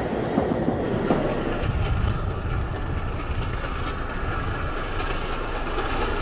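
Train running along the rails, heard from on board: a steady rumble, its character changing about two seconds in.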